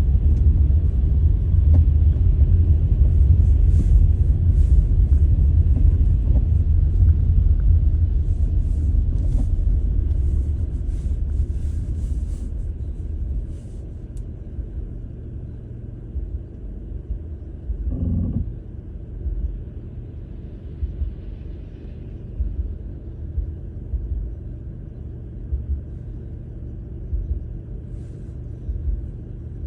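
Wind buffeting the microphone: a heavy, fluttering low rumble for the first dozen seconds, easing to a lower rumble with short gusts for the rest.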